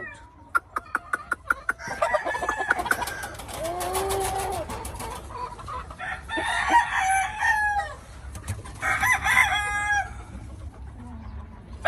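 Gamefowl roosters crowing, several crows one after another. A quick series of sharp clicks comes in the first two seconds.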